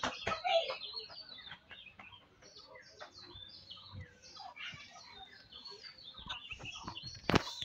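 Birds chirping and clucking in the background, many short calls scattered through, with a sharp knock near the end.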